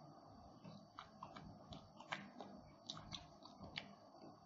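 A person chewing a mouthful of burger with the mouth closed: faint, irregular wet clicks and smacks, about two a second.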